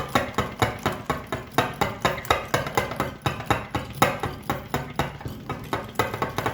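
Hand whisk beating an egg in a cup, knocking against the cup in a quick, even rhythm of about four strokes a second.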